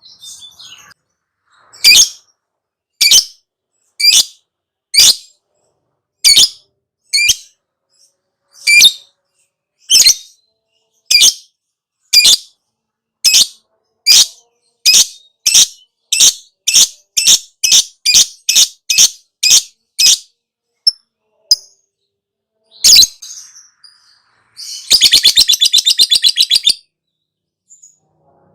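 Lovebird calling in sharp single chirps, about one a second at first and quickening to about two a second. After a short pause comes a rapid chattering trill of about two seconds, the 'ngekek'.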